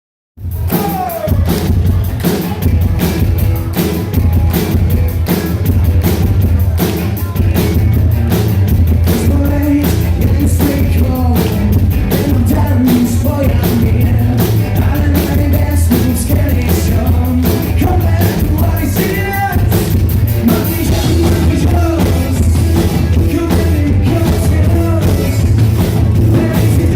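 Live rock band playing with a singer, a steady drum beat and a heavy bass, starting abruptly at the very beginning.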